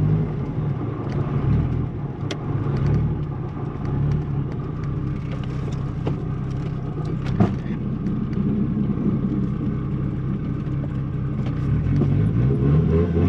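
The Mk2 Golf's turbocharged 1.8-litre 20-valve four-cylinder running steadily with a low hum, with a couple of sharp clicks and the engine note rising and falling near the end. The car has no drive: the CV driveshaft has snapped, so putting it in gear does nothing.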